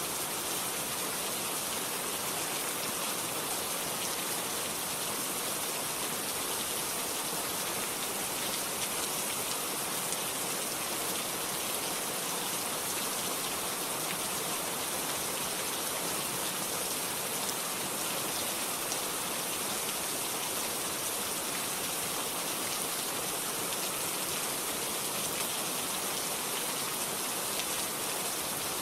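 Steady rainfall, a dense even hiss of raindrops with no change in strength.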